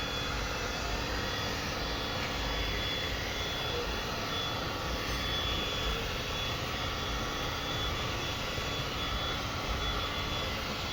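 Steady machine noise: a continuous rushing hiss with a thin high whine that comes and goes.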